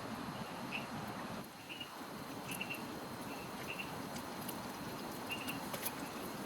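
Steady rain, with short high chirps from a small animal repeating every half second to a second, and a few sharp ticks like drips.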